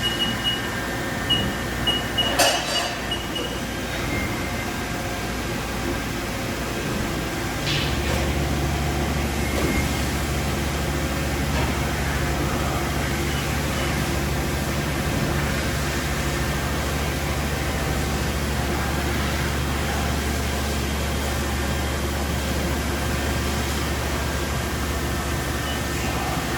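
Haas VF4 vertical machining center running: a steady low hum comes on about eight seconds in and holds over a constant background noise. A few short high beeps and a click come near the start.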